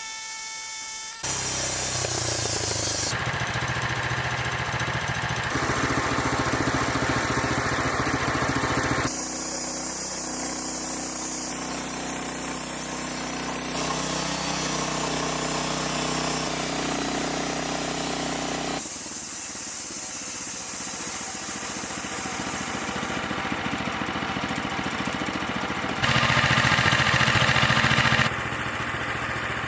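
Sawmill running and sawing boards of balsam fir. The engine and cut sound changes abruptly every few seconds, and a high whine is heard in the first second.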